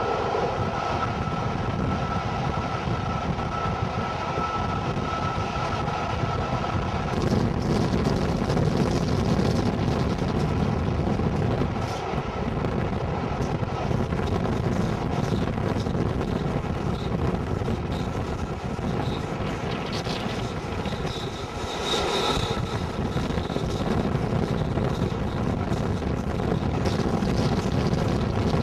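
Locomotive-hauled passenger train running at speed, heard through an open coach window: a steady rumble of wheels on the rails mixed with rushing wind, with a short louder rush a little over twenty seconds in.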